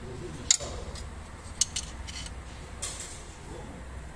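A few sharp metallic clinks, spread over a few seconds: metal tools or parts being handled during work on an engine.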